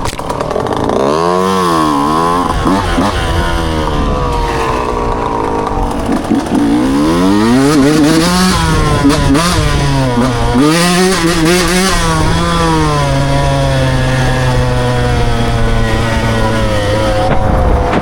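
Dirt bike engine under throttle while riding, its pitch rising and falling repeatedly through the first two-thirds, then holding at a steadier, slowly dropping pitch near the end.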